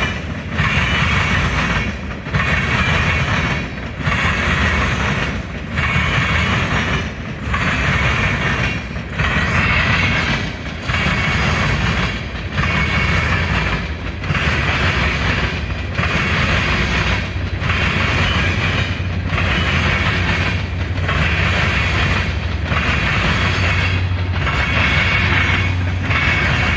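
A train passing close by: low rumble and steel-wheel noise, with a regular dip about every second and a half as each car goes past. A steady low hum comes up in the last few seconds.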